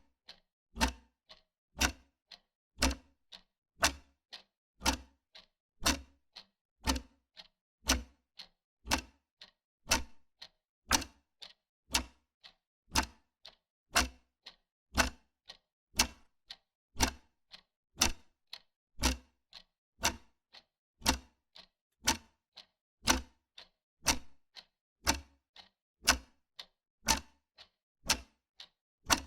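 Wall clock ticking steadily, about two ticks a second in an even tick-tock, every other tick heavier.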